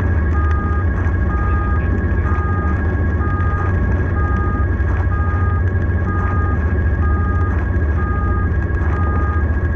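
Emergency vehicle's two-tone hi-lo siren, alternating between two notes about once a second, over a loud, steady low rumble of engine and road noise.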